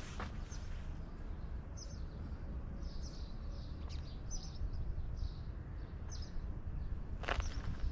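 Small birds chirping, short high calls about once a second, over a steady low outdoor rumble, with a footstep near the start and another near the end.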